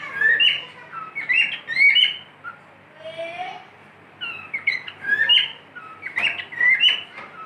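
Cockatiel whistling and chirping in about five short bursts of quick notes that slide up and down, with brief pauses between them.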